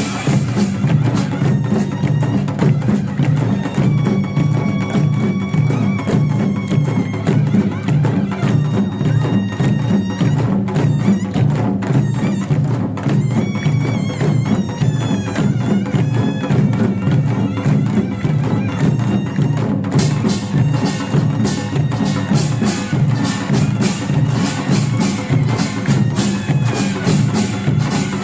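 Korean pungmul percussion band playing: janggu and buk drums beating a fast, steady rhythm throughout. A taepyeongso shawm plays a wavering, nasal melody over the drums from a few seconds in until about halfway, and in the last third the kkwaenggwari small gongs clang in rapid strokes.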